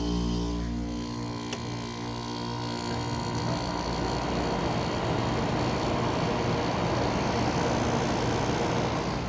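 A White-Westinghouse-built Kenmore 7000 BTU window air conditioner running shortly after startup. A steady hum cuts out about a second in, and a rush of fan air then builds and holds steady.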